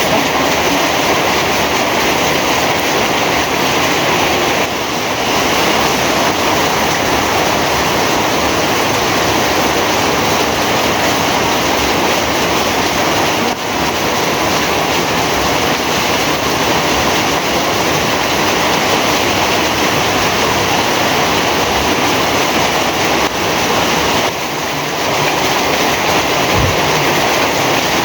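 Heavy rain falling: a loud, dense, steady hiss with a few brief, slight dips in level.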